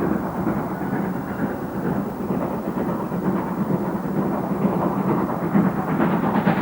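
A GWR Manor-class two-cylinder steam locomotive working hard under load, giving a continuous heavy rumble of exhaust and running gear.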